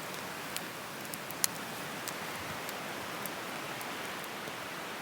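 Wood campfire burning with a steady hiss and scattered sharp crackles and pops from the burning wood, the loudest pop about one and a half seconds in.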